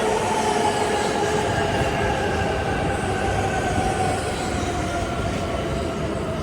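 Shinkansen train running through the station: a steady rumble with several whining tones that slowly fall in pitch.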